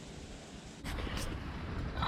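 Wind buffeting the microphone: a low rumble sets in suddenly just under a second in and carries on. Two sharp clicks sound close to its start.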